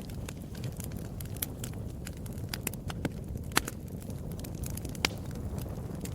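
Wood fire burning in a fireplace, with a steady low rush of flames and frequent irregular crackles and pops, a few louder pops among them.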